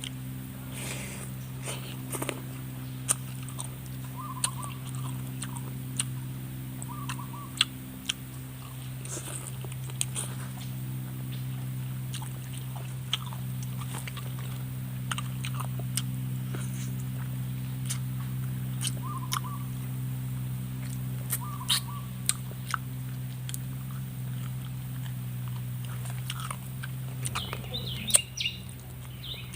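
Close-up chewing, biting and crunching on spicy chicken feet, with scattered sharp clicks, over a steady low hum. Near the end a bird starts chirping, high and repeated.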